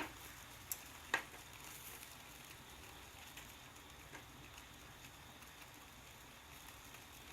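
Faint, steady sizzling of meat grilling over a fire, with a few sharp crackles or clicks in the first second or so.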